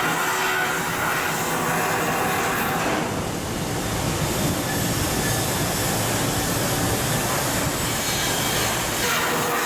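Steady, loud mechanical noise of heavy metalworking machinery at a shipyard, with a metallic grinding or rolling character.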